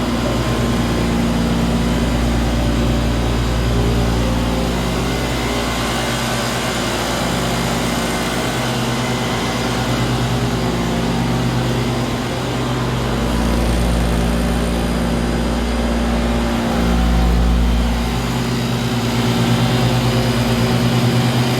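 A 90,000 kcal industrial refrigeration chiller running under test: a steady mechanical hum with a broad whir over it, the level swelling slightly now and then.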